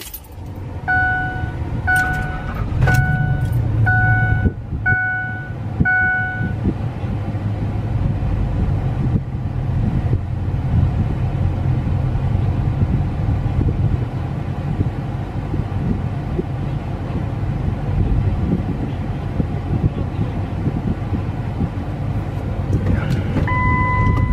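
A pickup truck's engine with dual exhaust starts and settles into a steady, loud idle rumble. A dashboard warning chime beeps six times, about once a second, in the first few seconds. Another chime sounds near the end.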